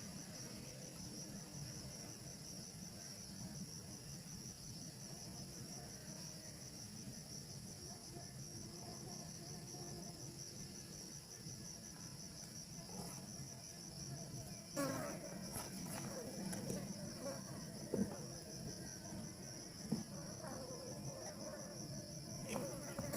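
Insects singing: a steady, high, finely pulsing trill that runs on without a break. A few short, louder calls or knocks break in over it from about two-thirds of the way through.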